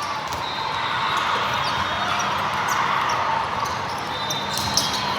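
Indoor volleyball in a gym: a steady hum of crowd and player chatter, with short high squeaks and a few sharp ball hits near the end.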